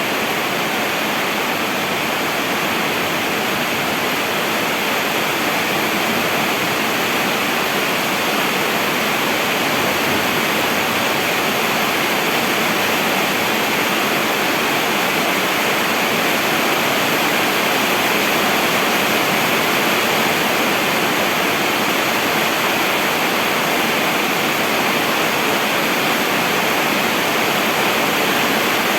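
Steady heavy rain falling, an even rushing hiss with no single drops, thunder or other sounds standing out.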